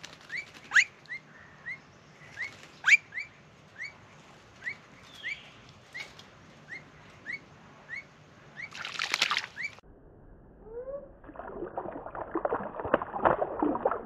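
A bird calling with a short rising chirp, repeated about every half second, with a few sharp clicks among the calls. About nine seconds in comes a brief burst of splashing, and from about eleven seconds to the end a bird splashes steadily as it bathes in a shallow tub of water, with a few lower rising calls just before.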